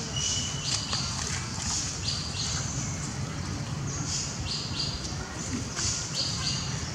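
A bird's high chirping call, repeated in pairs about every two seconds, over a steady low background rumble.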